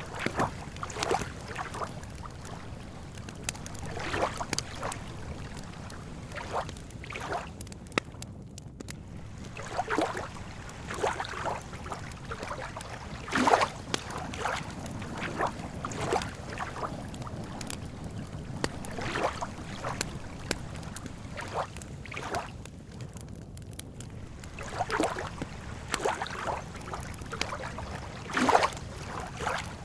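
Small lake waves lapping at the shore in irregular splashes every second or two over a low steady rumble, with an occasional sharp crackle from a campfire.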